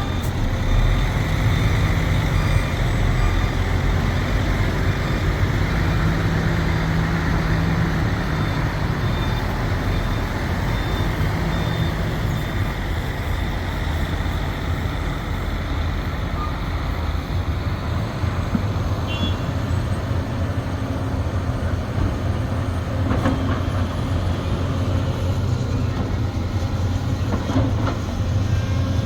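Sumitomo SH370LHD-6 excavator's diesel engine running steadily under working load, its pitch shifting slightly as the hydraulics work, with faint high beeping near the start and again around the middle.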